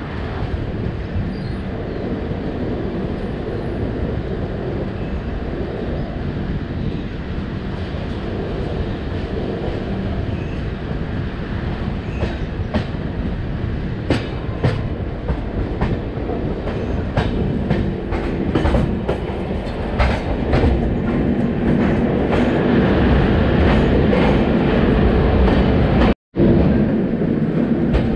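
Passenger train running on the line: a steady rumble, with wheels clicking over rail joints, the clicks getting more frequent and louder through the second half. The sound drops out for a moment near the end.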